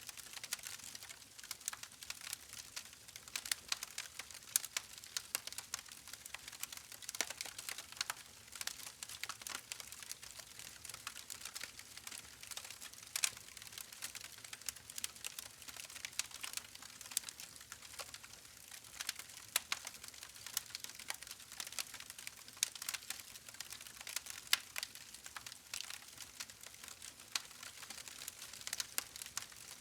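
Campfire burning, wood crackling and popping with many small irregular snaps over a soft hiss.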